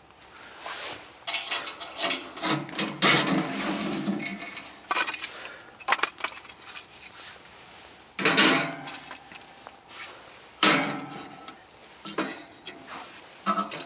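Irregular clattering and knocking of metal and wood as a camping wood stove is readied for lighting: stove parts handled and firewood loaded. There is a dense run of knocks and scrapes at the start, then several separate bursts.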